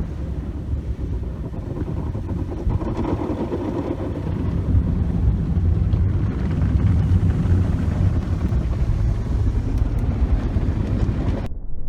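Automatic tunnel car wash running over the car: a steady rush of water spray and machinery with a deep rumble. The hiss drops away abruptly near the end, leaving only the low rumble.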